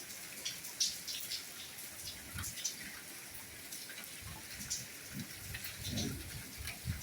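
Soft rainfall: a steady hiss of rain with many small drops ticking, and a few dull low thuds of heavier drops landing.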